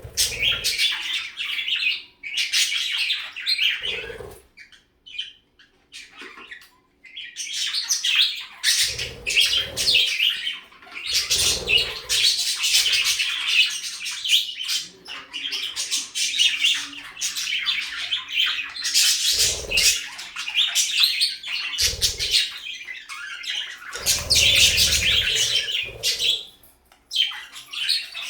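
Pet budgerigars chattering and chirping with occasional squawks, in long bursts broken by a short lull, with several dull low thumps among them.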